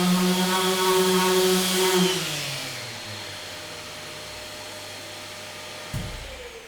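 An electric power tool motor runs at steady speed, then is switched off about two seconds in and winds down, its pitch and loudness falling. A single knock comes near the end.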